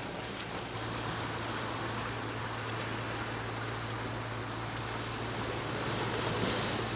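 Sea waves washing on the shore in a steady, even rush, with a low steady hum joining about a second in.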